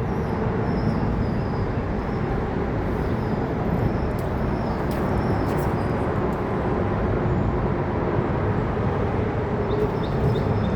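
Freight train cars rolling past on the rails, a steady rumble of wheels with scattered faint clicks.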